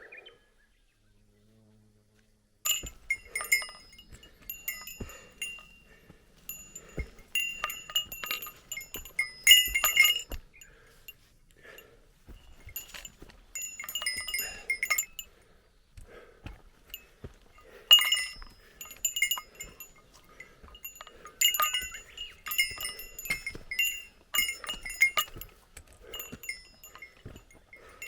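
A small metal bell on a hiker, of the kind carried as a bear bell, jingling in irregular clusters with each step. It starts about two and a half seconds in, with soft footfalls underneath.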